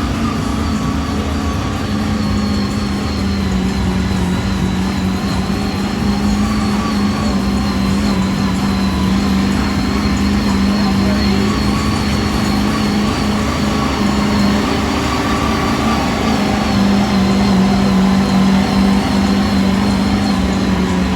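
Large vehicle engine running steadily, a continuous drone that holds one pitch.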